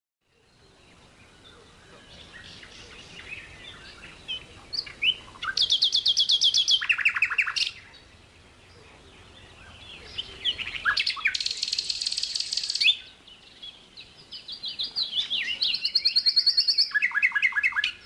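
Songbird singing in loud, rapid trills, three bouts of them, each a fast run of high notes that in two of them drops to a lower run. Softer scattered chirps come between the bouts.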